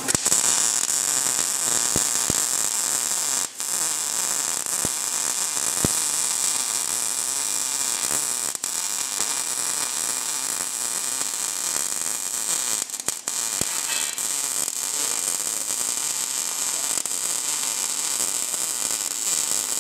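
MIG welder running: a loud, steady hiss with a few very short breaks.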